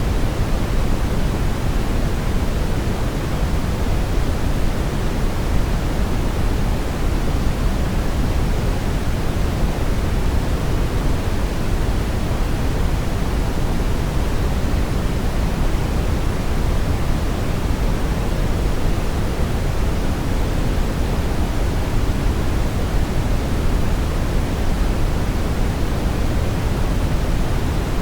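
Steady synthetic brown noise: an even, unchanging rumbling hiss, strongest in the bass and fading toward the treble.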